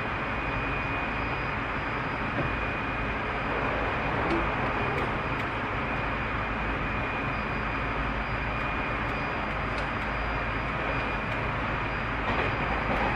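Tobu 30000 series electric train running at a steady speed, heard from inside the car: an even rumble of wheels and running gear with a faint steady high whine and a few light ticks.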